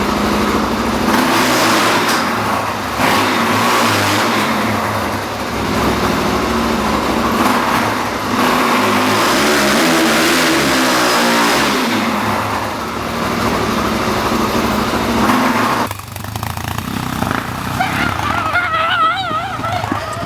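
Motorcycle engine running hard and revving, with heavy rushing wind and road noise. It drops off suddenly about sixteen seconds in, leaving a quieter engine.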